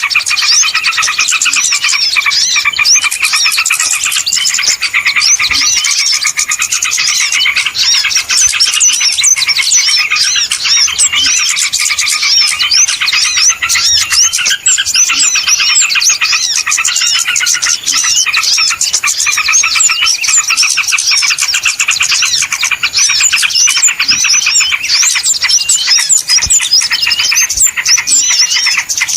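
Dense, unbroken chorus of many small birds chirping and twittering over one another, the busy mix used as a small-bird lure call (pikat burung kecil).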